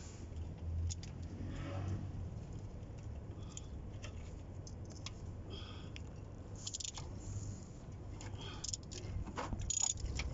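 Scattered light metallic clinks and scrapes of hand tools and parts being handled during the oil filter change, over a low steady hum.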